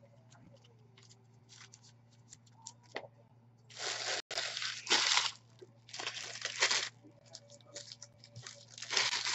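Trading-card pack wrappers being torn open and crinkled, in several short tearing bursts starting about four seconds in, with faint ticks of card handling before them.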